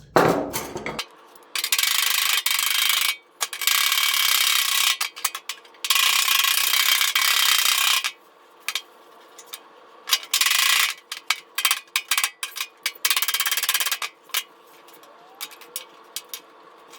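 Very rapid repeated hammer blows on a car body panel's sheet metal, flattening out ripples: three long bursts of about two seconds each, then shorter stop-start bursts.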